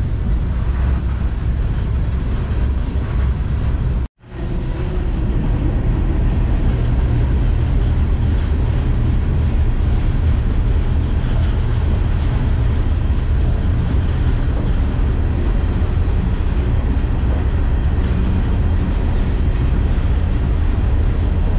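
Steady low rumble of a moving freight train, heard from aboard a car. The sound cuts out suddenly for a moment about four seconds in, then carries on.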